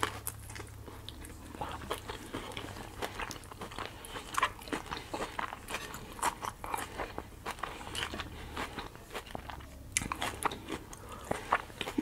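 Biting into and chewing a romaine lettuce wrap taco: a bite right at the start, then a run of short, crisp crunches as the lettuce is chewed.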